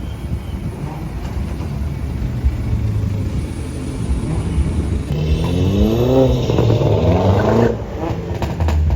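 Car engine with a loud aftermarket exhaust: a steady low drone, then about five seconds in the revs climb hard twice in quick succession before cutting off, followed by a few sharp cracks.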